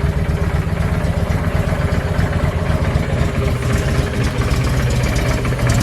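2007 Honda VT750 Shadow's V-twin engine idling steadily just after a cold start, running with its choke not pulled out.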